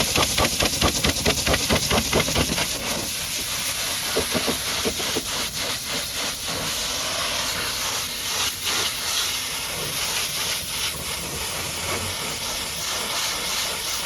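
High-pressure water jet spraying with a loud, even hiss. It pulses rapidly, about five times a second, for the first couple of seconds, then runs as a steadier hiss.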